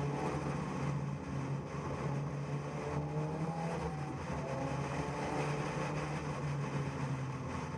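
Drift car's engine running at a fairly steady speed as the car drives down the straight, its pitch wavering slightly up and down, over wind and road noise.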